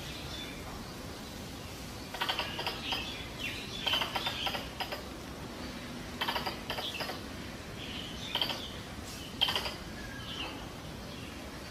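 Squirrel mating-season call played as a hunting lure: five short bouts of rapid clicking chatter, a second or less each, over a steady hiss.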